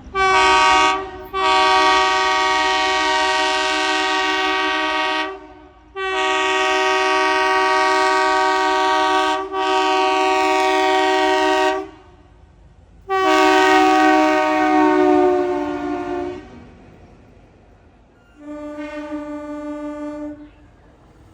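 WDM3A diesel locomotive's air horn sounding five times: a short toot, three long blasts of several seconds each, and a fainter, shorter one near the end.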